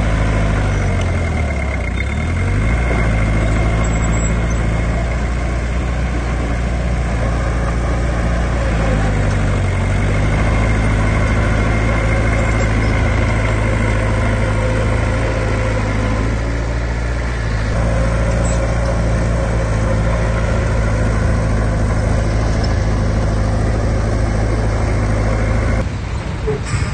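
Heavy earthmoving machine's diesel engine running steadily, its pitch dipping and rising twice as the engine is throttled down and back up. The sound changes abruptly near the end.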